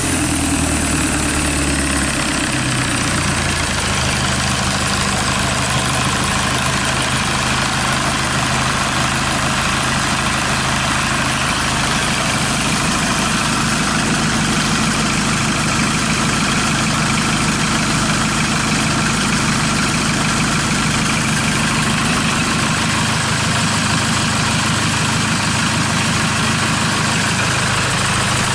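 Kia D4CB 2.5-litre common-rail diesel four-cylinder running outside the vehicle just after start-up, settling about two seconds in to a steady idle.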